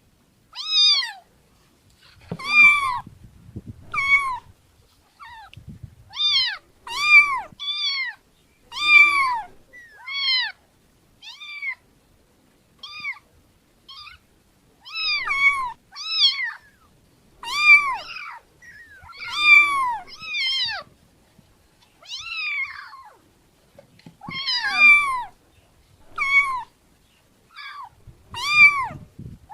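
A cat meowing over and over, with short high-pitched meows that each rise and fall in pitch, coming about once a second with brief gaps.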